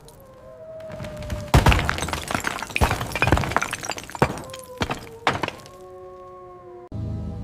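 A series of sharp cracks and thuds, loudest about one and a half seconds in, over a few held tones; steady ambient music takes over near the end.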